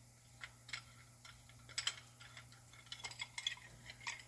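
Scattered light metallic clicks and taps as a clamp and an old brake pad are fitted against a brake caliper, ready to push the caliper piston back in. The clicks are strongest about two seconds in, with a cluster soon after three seconds.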